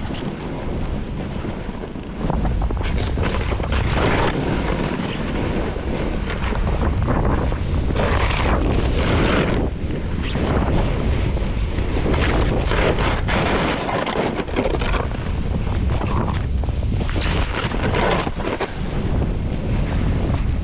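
Wind buffeting the microphone over the hiss and scrape of a snowboard carving down a snow slope, swelling and fading with each turn every second or two.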